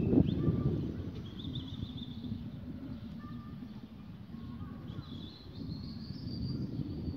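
Faint high bird chirps and whistled notes, twice in short runs, over a fluctuating low outdoor rumble that is loudest just after the start.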